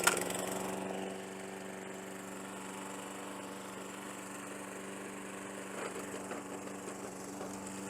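Walk-behind petrol lawn mower engine running, a little louder for about the first second and then settling to a steady, even note.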